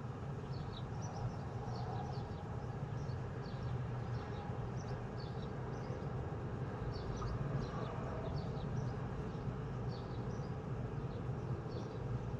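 Small birds chirping, short high calls repeated several times a second, over a steady low hum of background noise.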